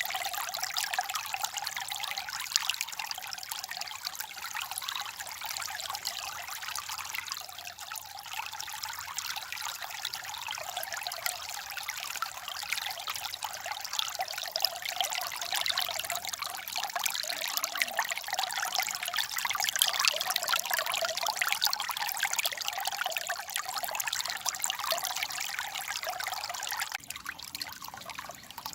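Water babbling and trickling in a small stream, a steady splashing rush that softens slightly near the end.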